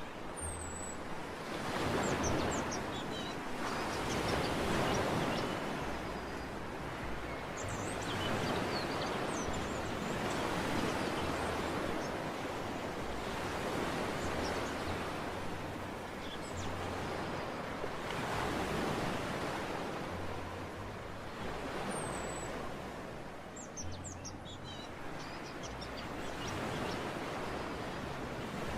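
Sea waves washing onto a beach, the surf swelling and falling back every few seconds, with faint short bird chirps now and then.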